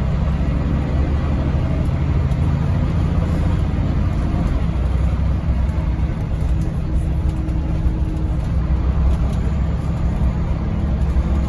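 Scania OmniLink I articulated city bus running, heard from on board: a steady, loud low engine drone with road and rattle noise over it.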